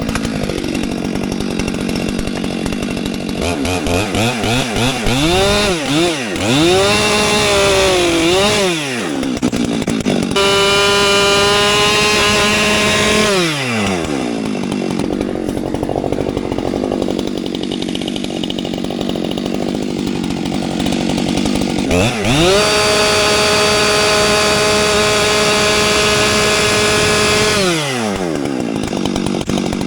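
Gas chainsaw idling, then revved up and down in quick blips, and twice held at full throttle for several seconds before falling back to idle.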